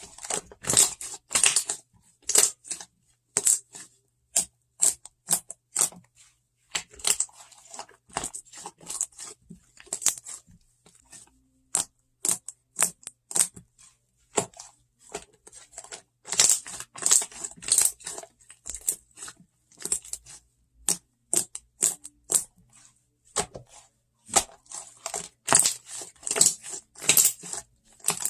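Slime being squeezed and pressed by hand, giving an irregular run of sharp clicks and crackling pops that come in denser clusters now and then.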